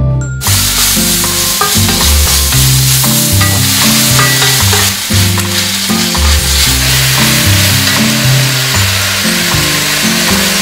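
Mushrooms and sliced onion sizzling as they are stir-fried in a hot cast-iron wok and turned with a wooden spatula; the sizzle starts suddenly about half a second in. Background music with a bass line plays under it.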